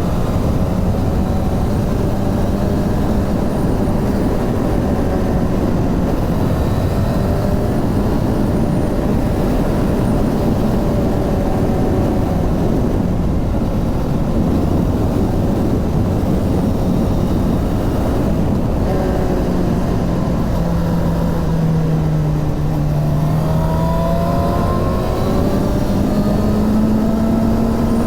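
Suzuki GSX-R 750 inline-four motorcycle engine running steadily. Its note sags slightly about two-thirds of the way through, then climbs as the revs rise near the end.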